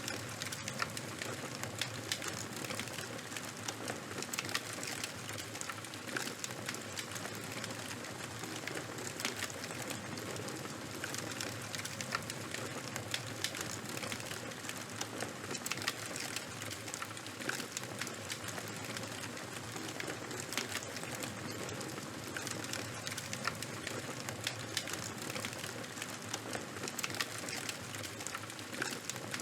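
Charcoal fire burning: a steady soft hiss with a dense, irregular run of small crackles and pops.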